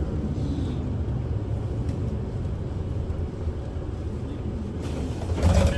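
Interior of a Kyoto City bus under way: steady engine hum and low road rumble. Near the end a brief louder burst of noise rises over it.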